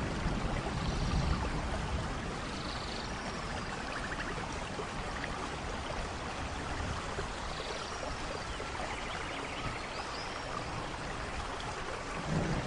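Steady heavy rain in a rainforest, with a thunder rumble fading away at the start and another beginning to rumble near the end. Faint high chirps and trills sound over the rain.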